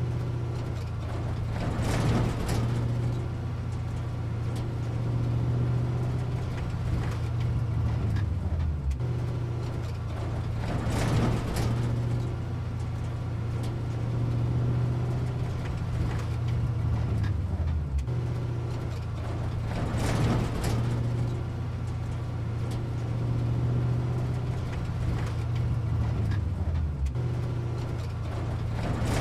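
Heavy vehicle engine running steadily at a low pitch, with a rushing whoosh about every nine seconds. The whole pattern repeats like a looped sound effect.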